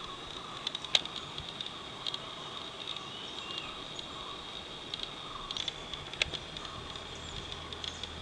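A steady, high-pitched insect drone with pulsing buzzy stretches, plus a few short bird chirps and two sharp clicks, about a second in and near six seconds.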